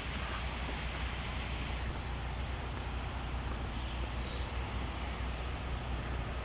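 Steady low rumble and even hiss of wind buffeting the microphone.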